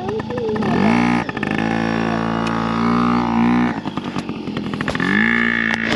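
Two-stroke dirt bike engine revving: the pitch climbs about half a second in and holds high for a few seconds, drops back to a pulsing idle, then rises and holds again near the end.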